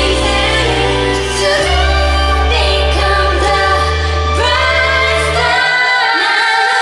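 A K-pop girl group sings a pop song, with female voices carrying the melody over long, held bass notes. The bass drops out near the end.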